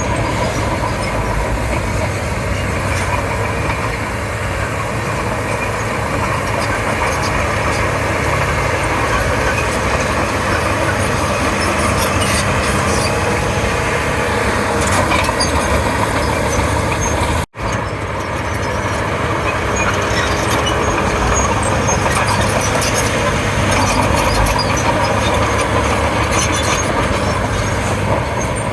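Komatsu D31P crawler bulldozer at work: its diesel engine runs steadily under load, with scattered clanks and rattles from the steel tracks and blade. A split-second cut to silence comes about two-thirds of the way through.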